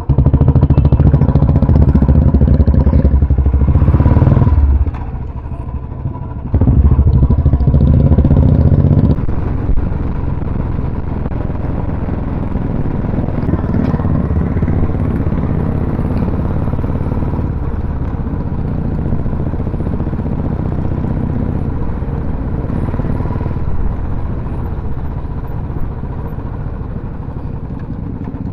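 Royal Enfield motorcycles running. The engines are loud for the first five seconds, drop briefly, are loud again for about three seconds, then settle to a steadier, quieter running sound.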